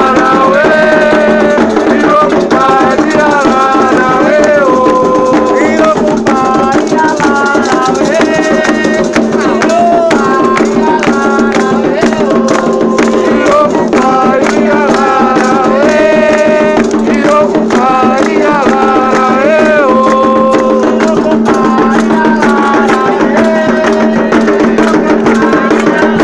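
Candomblé ritual music for Xangô: voices singing a Yoruba chant together over steadily played drums and a rattle, without a break.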